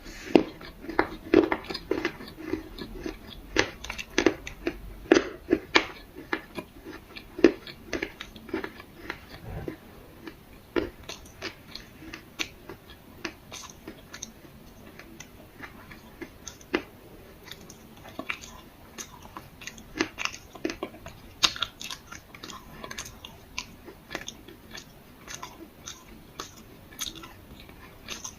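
A person biting and chewing chunks of black clay close to the microphone, giving a run of dry, crisp crunches and snaps. The crunching is loudest and densest for the first ten seconds or so, then turns softer and sparser.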